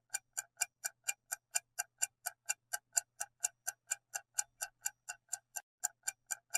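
Steady clock-tick sound effect, about four sharp ticks a second: a quiz countdown timer running while the answer is awaited.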